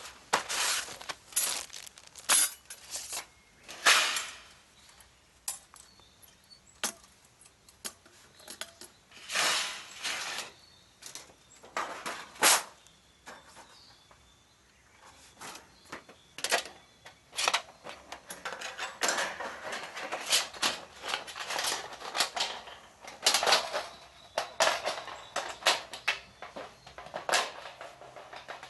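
Wood fire burning in a Picogrill 498 stainless fire pit, crackling with irregular sharp pops and cracks, busier in the second half.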